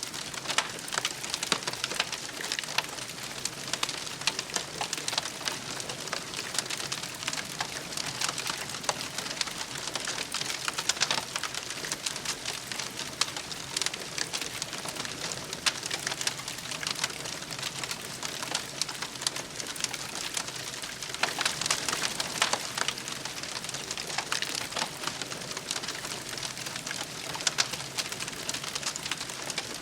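Wood fire crackling and popping steadily, a dense patter of small snaps with sharper pops scattered throughout.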